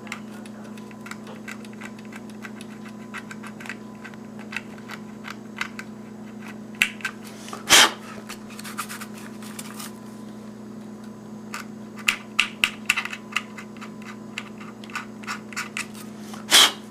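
Hobby knife blade lightly scraping printed numbers off a plastic HO-scale model locomotive shell: irregular small scratches and ticks, with two louder scrapes about eight seconds in and just before the end. A steady low hum runs underneath.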